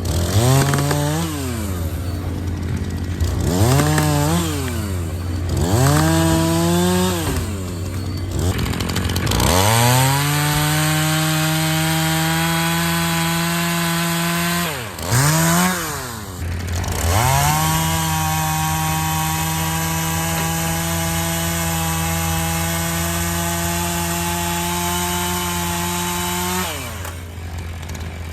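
Chainsaw blipped up and down three times, then held at full throttle through two long cuts of about five and nine seconds, dropping back between them and falling to idle near the end.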